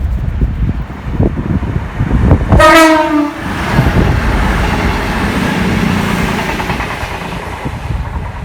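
A passing train sounds a short single-note horn blast about two and a half seconds in, after gusty wind buffeting the microphone. The rush of the train going by follows and fades slowly.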